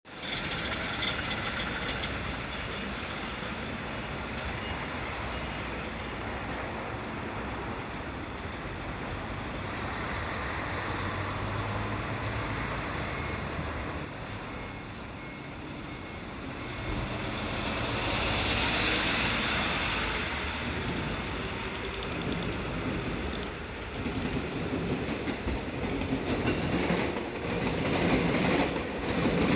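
A train running, a steady rumble with a swell of hissing about two-thirds of the way through, then growing louder and rattling near the end.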